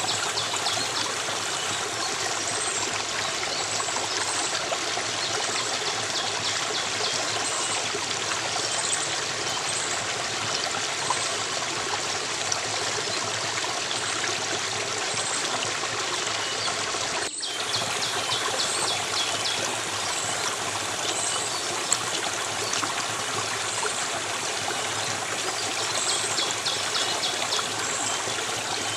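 Stream water running steadily, with a brief break about 17 seconds in. Faint, high, rapidly repeated chirps come and go over it.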